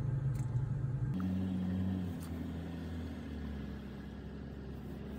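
Car engine running, heard from inside the cabin as a steady low hum. About a second in its note shifts up, then eases back down and holds.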